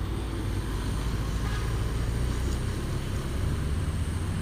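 Heavy truck's diesel engine working up a steep grade at low speed, a steady low rumble.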